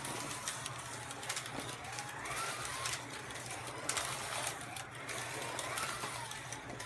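Carrera Digital 132 slot cars' small electric motors whining around the track, the pitch rising and falling as they speed up and slow down. There are scattered sharp clicks and a steady low hum underneath.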